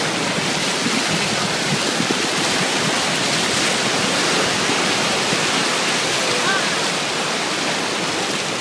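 Typhoon wind and rain: a loud, steady rushing noise with no letup.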